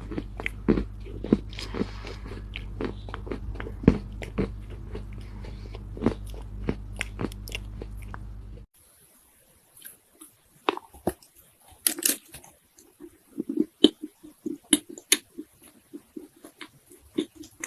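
Soft Chinese loess (dried clay earth) crunching as it is bitten and chewed, in a rapid run of crisp crunches. About two thirds of the way through, a steady low hum behind them cuts off suddenly and sparser, quieter crunches go on.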